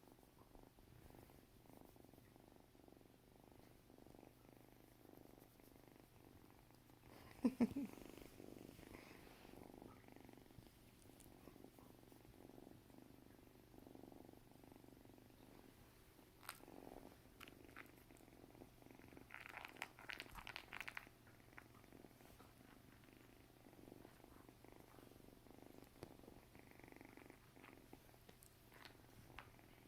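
Kitten purring steadily, with a brief loud sound about seven and a half seconds in and a short burst of louder noise around twenty seconds in.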